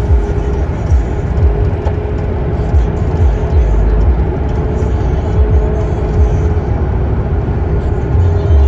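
Road vehicle noise: a heavy, continuous low rumble with a steady hum.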